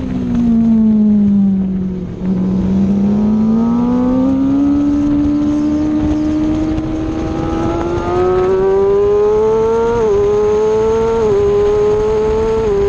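Aprilia Tuono motorcycle engine heard on board at a racetrack: the revs fall for about two seconds as it slows, then climb steadily as it accelerates hard, with two quick upshifts near the end.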